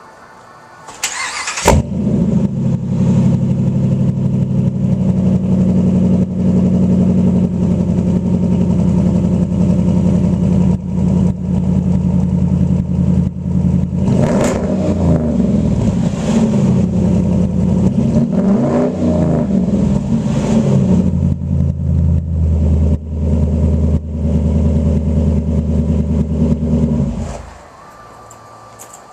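A 5.7-litre Hemi V8 breathing through a cat-back Flowmaster true-dual exhaust with two single-chamber Super 40 mufflers starts up about two seconds in and settles into a loud, steady idle. It is revved twice in the middle and shut off near the end.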